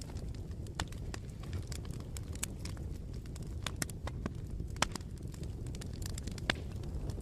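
Bonfire burning: a steady low rumble of flames with sharp, irregular crackles and pops from the burning wood, two of them louder in the second half.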